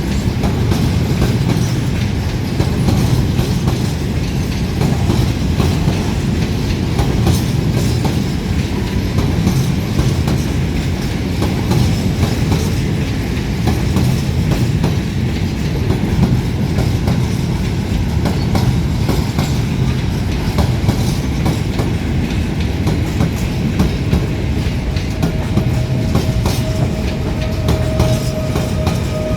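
A train running past at close range: a steady loud rumble of the wagons with wheels clattering over rail joints. A faint steady squeal comes in near the end.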